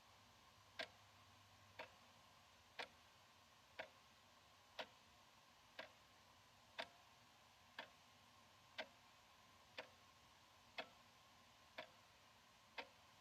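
Analog wall clock ticking faintly, one sharp click each second, the beats alternating slightly louder and softer as tick and tock.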